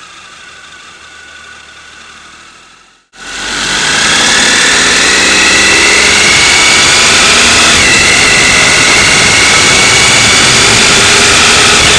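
Motorcycle engine with heavy wind rush on the microphone. After a quieter first three seconds and an abrupt cut, it comes in loud, and the engine pitch climbs steadily under acceleration, with a brief dip about eight seconds in as it shifts gear.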